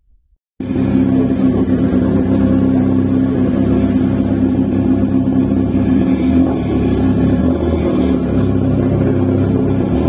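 Turbocharged 1.8T inline-four engine of a heavily modified Skoda Octavia (FP Red turbo, de-catted full exhaust) running loudly at a steady engine speed on a dyno. It cuts in suddenly about half a second in and holds an even pitch with no rise or fall.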